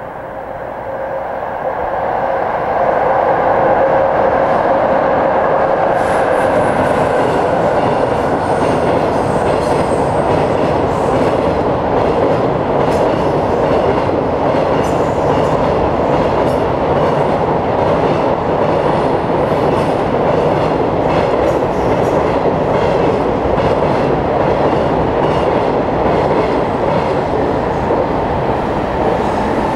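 JR Freight freight train passing at speed. It hums at first as it draws near and grows louder, then gives a steady rumble of wheels on rail with a fast clatter of wheels over rail joints.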